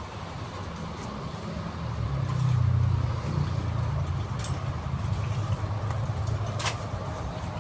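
A motor vehicle's engine running with a steady low rumble that swells about two to three seconds in, with a couple of sharp clicks later on.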